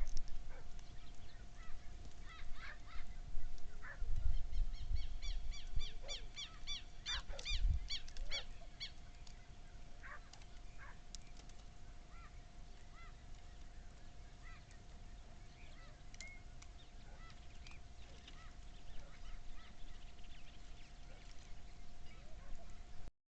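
Birds calling: a quick run of repeated pitched calls, about four a second, a few seconds in, with scattered short chirps through the rest. A faint steady hum runs underneath.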